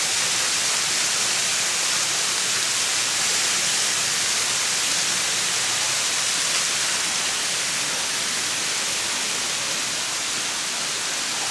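Steady rushing hiss of a waterfall dropping about 73 feet into a sinkhole.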